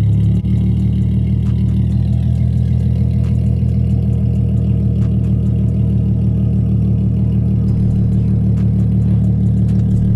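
Nissan VQ-series V6 with a loud aftermarket exhaust idling, a steady deep rumble.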